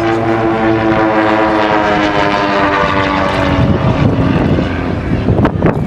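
A propeller airplane flying past, its engine and propeller drone dropping steadily in pitch as it goes by, then fading into a rough rumble with gusts of wind on the microphone near the end.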